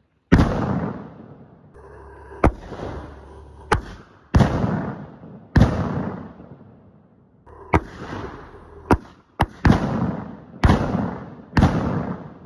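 Aerial salute firework shells bursting overhead: a rapid, irregular series of about eleven loud bangs, each trailing off in a rolling echo.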